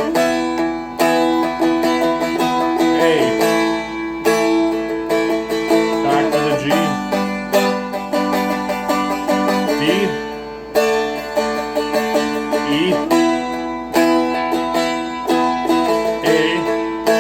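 Seagull Merlin M4, a four-string dulcimer-style instrument, strummed and picked through the verse chord progression (G, D, E), the chord changing about every three seconds.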